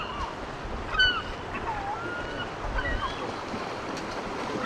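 Gulls calling in short, high, bending cries, two sharp ones at the start and about a second in, then softer ones, over the steady rush of river water.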